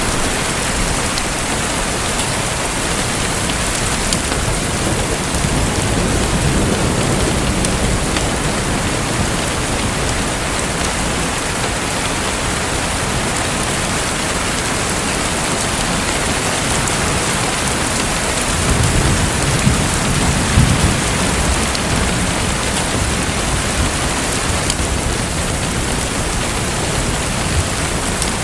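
Steady, even hiss of splashing, pattering water, with low rumbling swells about six seconds in and again around twenty seconds in.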